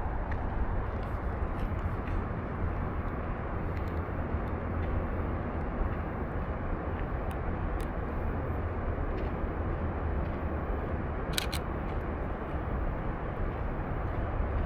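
Canon EOS RP camera shutter clicking: a sharp double click about eleven seconds in and a few fainter clicks, over a steady low rumble of outdoor background noise.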